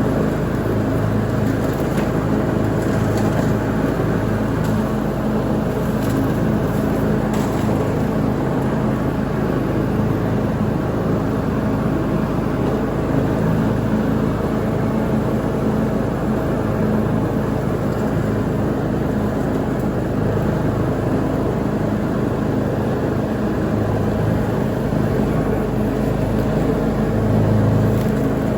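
Lawn mower engine running steadily at mowing speed, an even hum with no breaks or changes in pitch.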